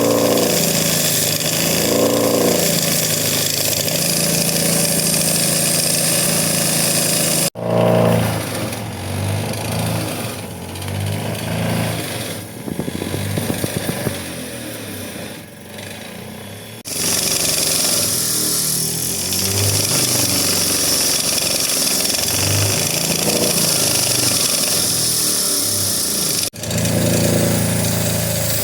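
Motor-driven machinery running steadily, in three separate clips joined by sudden cuts.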